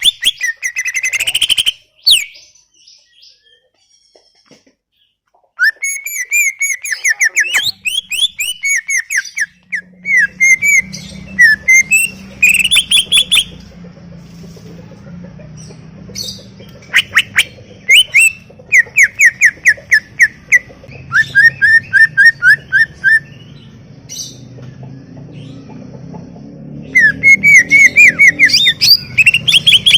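Cucak ijo (green leafbird) singing in loud bursts of rapid, repeated falling whistled notes and high chatter, with a pause of a few seconds near the start. A faint low steady hum sits underneath from about ten seconds in.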